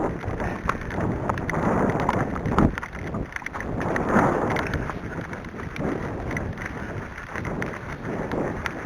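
Wind buffeting the microphone in uneven gusts, with scattered small knocks.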